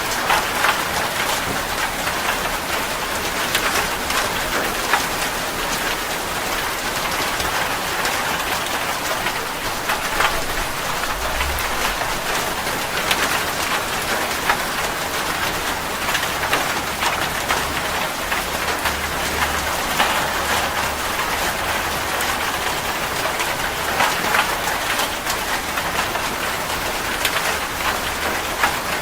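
Steady rain falling, a continuous hiss with many individual drops ticking and splashing on a hard surface.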